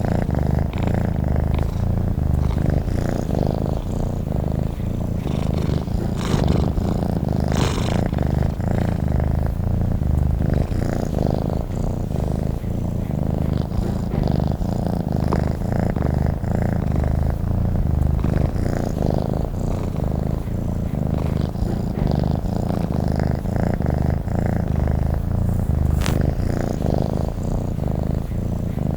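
Domestic cat purring steadily and continuously: a low, even rumble with a fast fine pulse.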